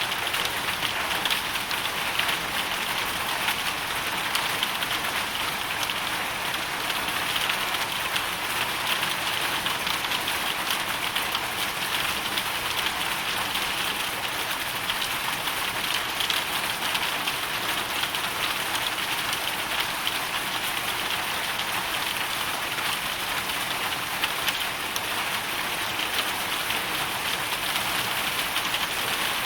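Hailstorm: hail and rain pelting down steadily, a dense patter of many small impacts.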